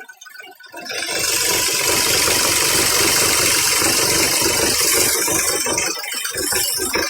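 Hyundai Xcent engine running, with the loose air filter housing mounted on top of it shaking and rattling against the engine. The sound swells sharply about a second in and eases near the end; the loose air filter unit is the fault.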